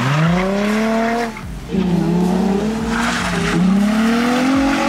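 Nissan 350Z's V6 engine revving hard as the car drifts on wet asphalt. The revs climb, drop briefly about a second and a half in, then climb again, over the hiss of the tyres sliding on the wet road.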